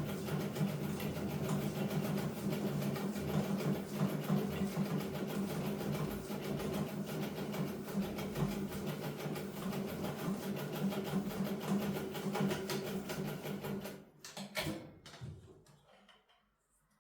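Sewing machine running steadily at a fast, even stitching rhythm, then stopping about fourteen seconds in, followed by a few light knocks.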